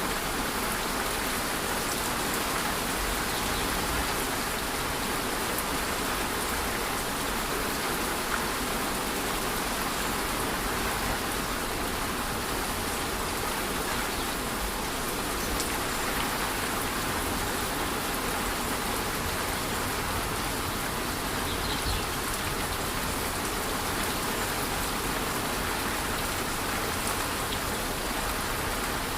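Steady rush of a waterfall mixed with light rain pattering on foliage, with the odd single drop standing out.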